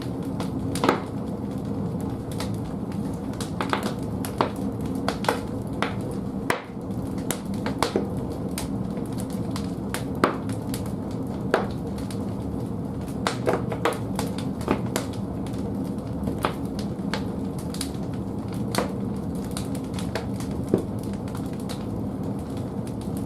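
Firewood logs burning in the firebox of an old wood-fired bathhouse boiler: a steady low rush of the fire with irregular sharp crackles and pops from the burning wood.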